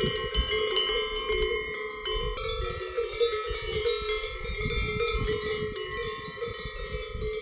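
Several cowbells on grazing cows clanking and ringing irregularly, their tones overlapping, with a low rumble underneath.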